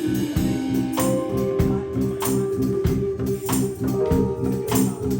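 Live band playing an instrumental passage: long held chords over a repeating bass line, with a percussion hit about every 0.6 seconds keeping a steady beat.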